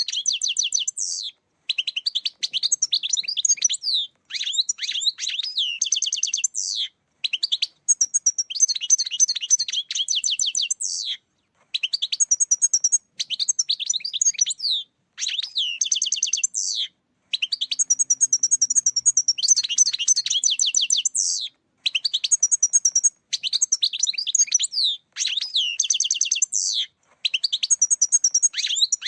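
European goldfinch song: fast, high twittering and tinkling phrases, each lasting one to three seconds, with short breaks between them.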